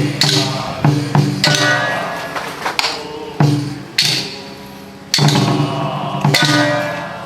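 Taoist ritual percussion for a boiling-oil purification rite: gongs and cymbals struck in an irregular beat, each stroke ringing on.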